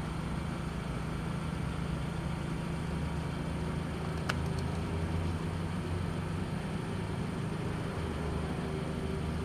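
Car engine idling: a steady low hum, with one sharp click about four seconds in.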